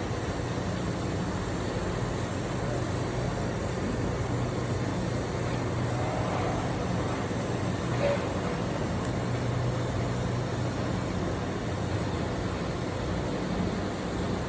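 Steady low mechanical hum of running equipment, with an even noise over it.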